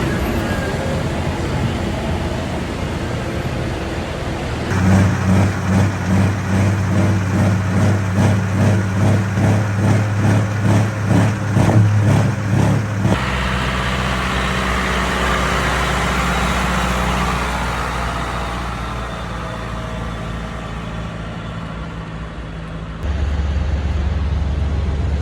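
Heavy tractor engines running, with abrupt changes in sound partway through and near the end. In one stretch the engine note pulses about twice a second.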